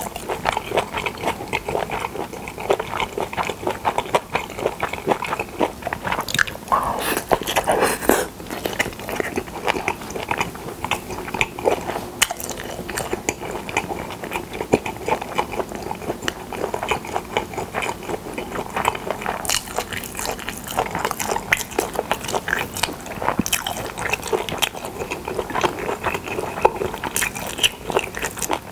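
Close-miked chewing of a mouthful of pyeonyuk, Korean pressed boiled pork: a dense, steady run of wet mouth clicks and smacks, a little louder about seven seconds in.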